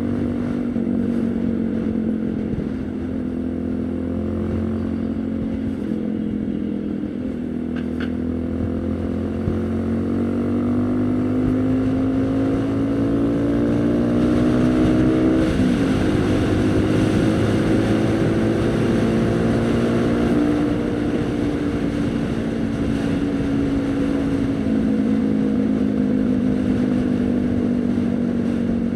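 Haojue NK150 motorcycle's single-cylinder engine running under way, its pitch climbing slowly as the bike accelerates, falling suddenly at a gear change about halfway through, then rising again before easing off.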